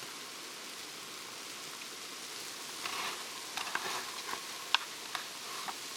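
Blizzard: a steady hiss of wind-driven snow, with a few short crunches and clicks from about three seconds in.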